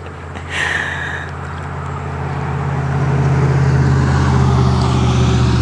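A boat's motor running with a steady low pitch, growing louder over the first three seconds and then holding steady.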